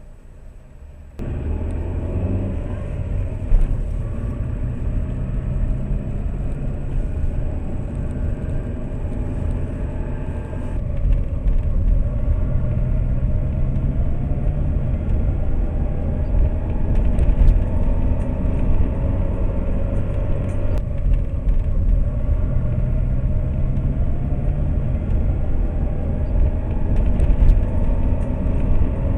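Lada Priora engine and road noise heard inside the cabin as the car drives, coming in suddenly a little over a second in. The engine pitch rises in stretches, breaking off about 11 and 21 seconds in, like the car accelerating through the gears.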